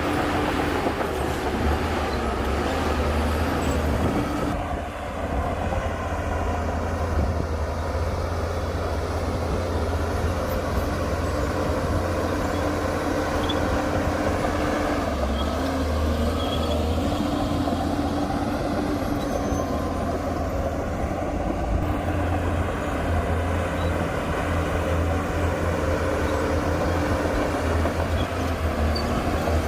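Heavy diesel earthmoving machinery, a bulldozer at work, running steadily with a low drone and a pitched whine that comes and goes.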